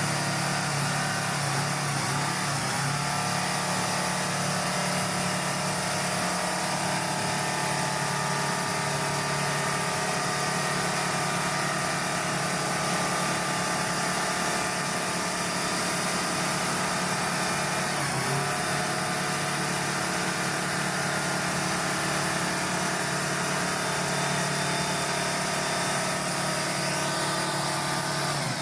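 Heavy truck engine running steadily at low revs, with a brief change in engine note about two-thirds of the way through.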